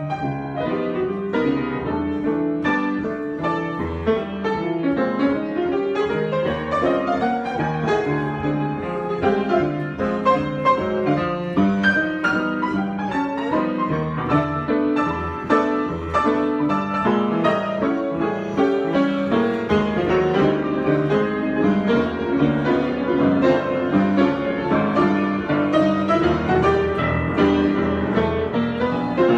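Piano improvisation: a continuous flow of notes, with runs that sweep up and down the keyboard over a sustained bass.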